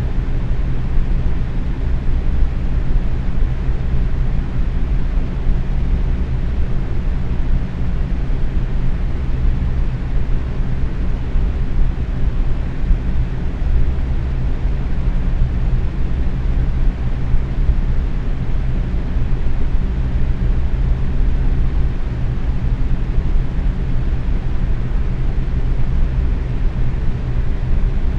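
Box fan running at medium speed: a steady, unchanging whoosh of moving air, heaviest in the low end, with a faint motor hum.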